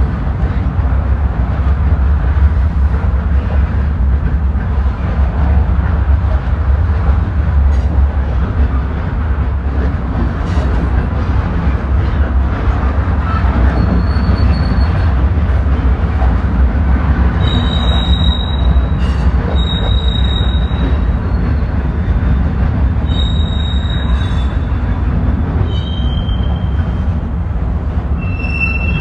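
Freight train cars rolling past: a steady, heavy rumble of steel wheels on rail, with several short high-pitched wheel squeals in the second half.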